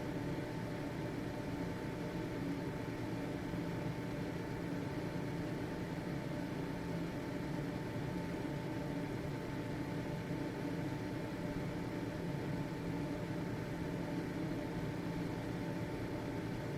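Household exhaust fan running steadily: an even motor hum and airflow noise with a constant whine.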